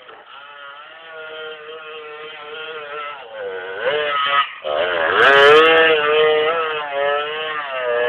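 Off-road dirt bike engine revving on a woodland trail, its pitch rising and falling with the throttle. It grows louder about two-thirds of the way through as the bike comes closer.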